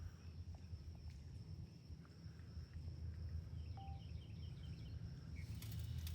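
Faint outdoor marsh ambience: a steady low rumble, like wind on the microphone, under a thin, steady high insect drone. A short run of quick chirps comes a little past halfway, with a few light clicks near the end.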